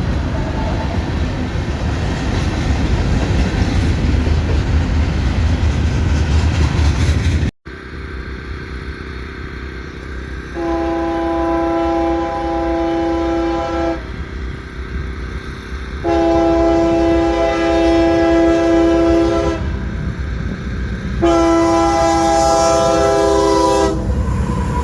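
Train running past with a steady rumble, then a sudden cut. After the cut, a locomotive air horn sounds three long blasts, each a chord of several notes held for about three seconds, with short gaps between, over the rumbling train.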